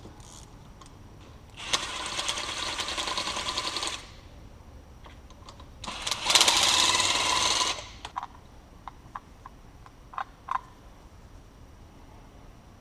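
A power tool on a socket spinning out the 12 mm cylinder head hold-down bolts of a Kawasaki KLX400 engine. It runs in two rapid rattling bursts of about two seconds each, the second louder, followed by a few light metal clicks of tools and parts.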